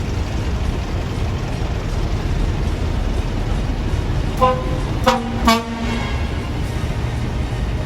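A car horn sounds three short toots in quick succession about halfway through, the last a little longer, over the steady rumble of street traffic.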